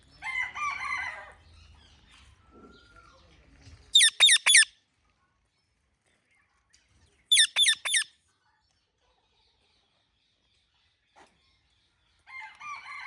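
Indian ringneck parrot calling: a softer warbling call at the start, then two loud bursts of three or four quick, shrill screeches that fall in pitch, about four and seven seconds in, and another softer call near the end.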